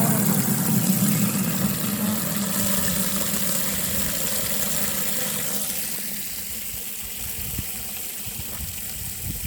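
Water gushing from an outdoor tap into a container, the tap not frozen in the cold; steady, then softer about six seconds in.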